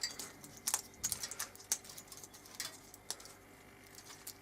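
Light, irregular clicks and taps of hard plastic as a freshly cut ring of CD-case plastic is cleaned up, about half a dozen in all.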